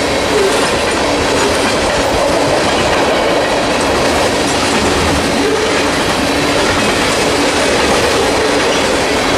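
Freight train rolling past close by: a steady, loud rumble of wheels on the rails, with a faint squeal from the wheels.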